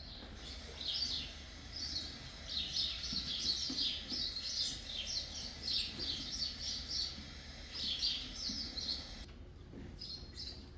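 Small birds chirping, many short high notes in quick clusters that thin out near the end, over a steady low hum.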